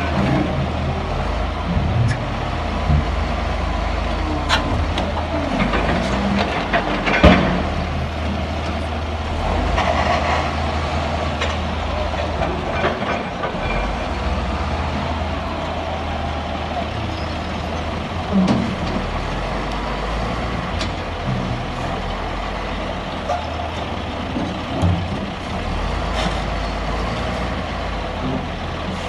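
Heavy diesel machinery running steadily with a deep rumble, with scattered knocks and clanks, the sharpest about seven seconds in.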